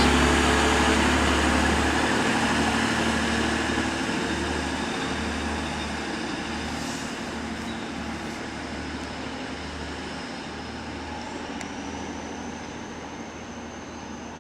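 A train running at a station, its noise fading steadily, with a low pulsing throb underneath.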